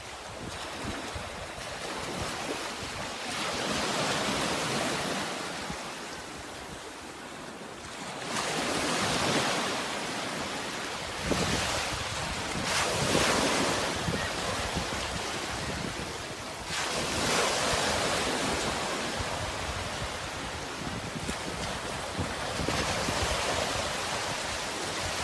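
Sea waves washing in, with a surge of surf about every four to five seconds over a steady wash of water. Wind rumbles on the microphone throughout.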